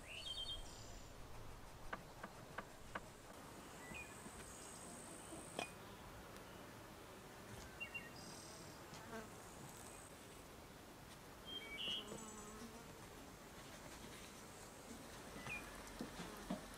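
Faint natural ambience: scattered short, high bird chirps and insect sounds, with a few soft clicks.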